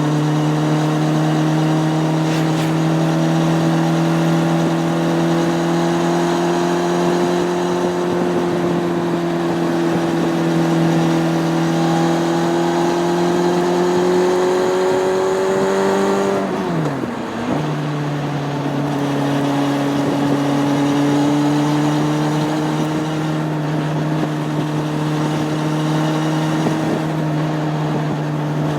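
Honda CB600F Hornet's inline-four engine running under way, revs climbing slowly. About two-thirds of the way through there is a quick gear change: the engine note drops and dips, then settles at a steady lower pitch.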